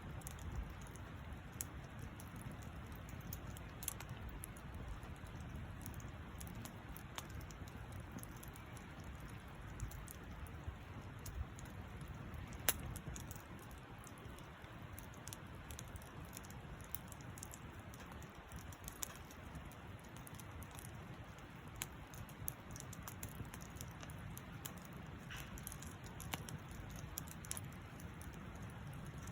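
Wood campfire crackling, with irregular sharp pops over a low steady rush of flame; one louder pop about thirteen seconds in.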